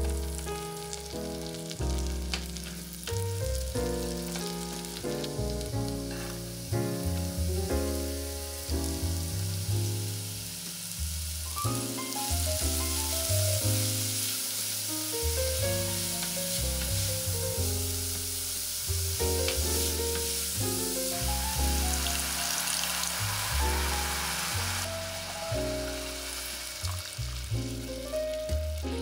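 Minced garlic and chopped maitake mushrooms sizzling in butter in a saucepan as they are stirred with a silicone spatula; the sizzle is strongest through the middle stretch. Background music plays throughout.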